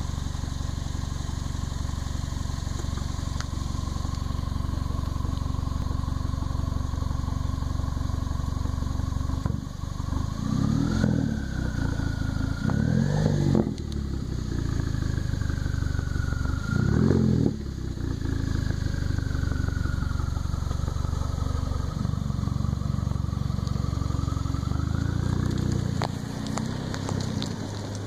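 Turbocharged 1.8-litre four-cylinder of a 2015 mk6 with its rear and mid mufflers deleted, idling and then blipped three times. A gentler, longer rev comes near the end. A thin turbo whistle rises and falls with each rev.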